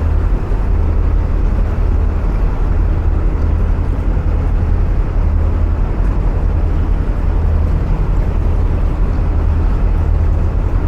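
Narrowboat diesel engine running steadily at cruising speed, a constant low drone, heard inside a long brick canal tunnel.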